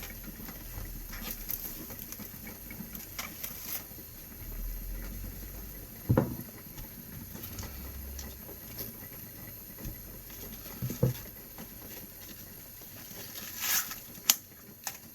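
A head of cabbage being handled and its outer leaves pulled off: light rustling and crackling of the leaves, with a few sharp knocks against a surface.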